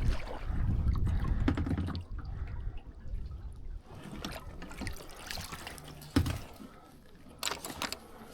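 Water trickling and sloshing, with scattered clicks and a single knock about six seconds in.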